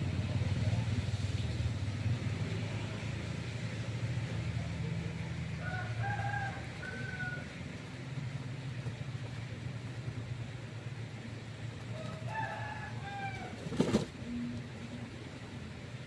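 A rooster crowing twice, about six and twelve seconds in, over the steady hiss of rain and a low hum that fades about halfway. A single sharp knock comes just before fourteen seconds.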